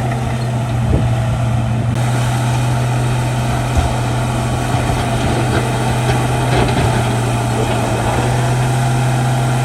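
Shantui D95 bulldozer's diesel engine running at a steady, even speed, with a single light knock about four seconds in.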